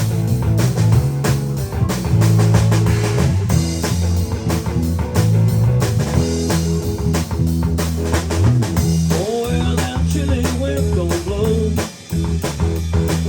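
A band playing an instrumental blues-rock passage with a drum kit keeping a steady beat, bass and guitar. In the second half a lead line comes in with bending notes.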